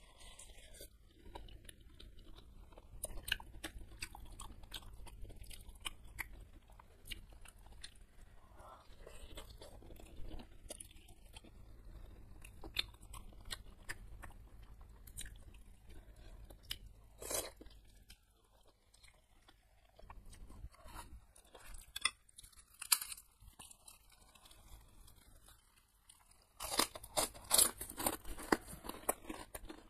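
Close-miked chewing of a large beef meatball (bakso), with sharp wet mouth clicks scattered throughout. Near the end comes a run of louder, denser crunching.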